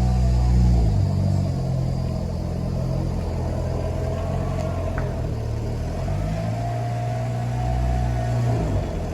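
Car moving at low speed, its engine note dropping and rising as it pulls away, with a faint steady whine and a single click about halfway. This is the abnormal noise from the front right wheel that swapping the brake rotors left to right did not cure; it is worst when moving off from full left lock.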